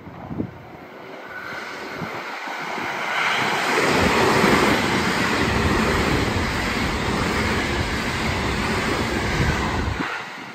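A JR West 225 series eight-car electric train passes through the station at speed. Its wheel and running noise on the rails builds as it approaches and stays loud for about six seconds. It cuts off sharply as the last car goes by.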